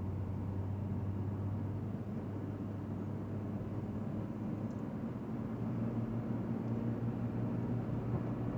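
Steady low hum of a car's engine and running noise, heard from inside the cabin.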